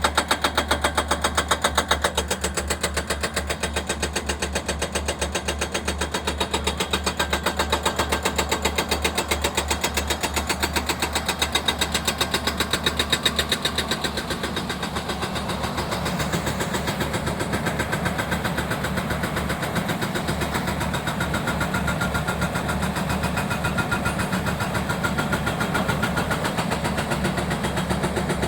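An engine running steadily with a fast, even pulse, dropping a little in level about halfway through.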